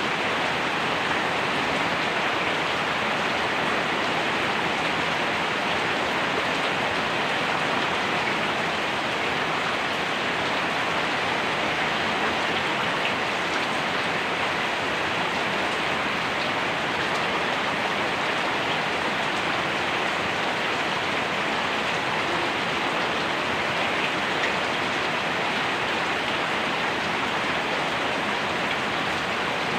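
Steady rain falling, an even hiss of countless drops without let-up.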